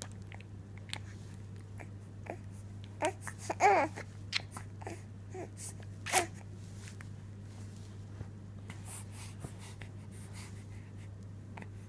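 An infant's short squeaks and grunts, scattered, the loudest a brief squeal about four seconds in and another about six seconds in, over a steady low hum.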